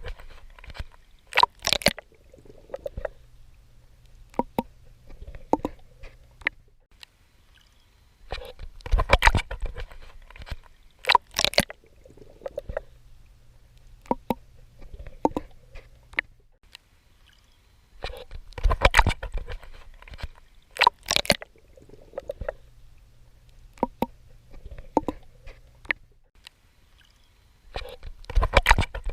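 Swimming in the sea: groups of sharp water splashes from strokes at the surface come back about every ten seconds. Between them there is softer sloshing and gurgling over a low rumble.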